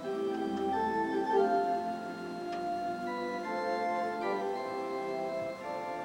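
Organ playing a gospel hymn tune with no voices: sustained chords under a moving melody, the notes changing every half second or so.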